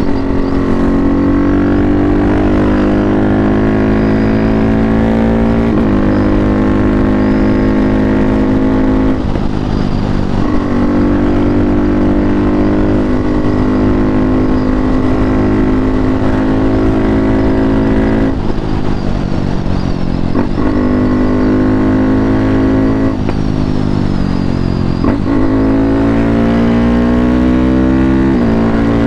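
KTM RC 390's single-cylinder engine through a full Akrapovič exhaust system, accelerating hard. Its pitch climbs, then drops sharply at each of several upshifts.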